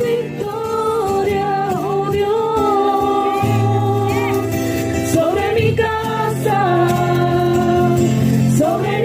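Spanish-language Christian worship song: a singer holding long, wavering notes without clear words over a backing band with a steady bass.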